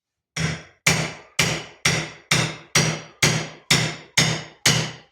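Hammer blows, about two a second and evenly paced, around ten strikes in a row, each a sharp hit that dies away quickly.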